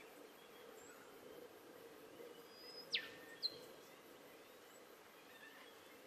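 Two short, sharp bird calls about three seconds in: a fast whistled note sweeping steeply down in pitch, then a shorter high note half a second later. Behind them is faint outdoor ambience of distant chirps and a low steady hum.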